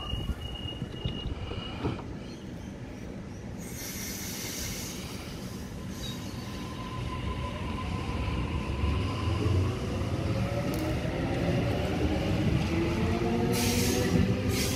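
Double-deck electric passenger train pulling away from a station platform. Its traction motors whine in several pitches that rise together as it gathers speed, over wheel and rail noise that grows steadily louder.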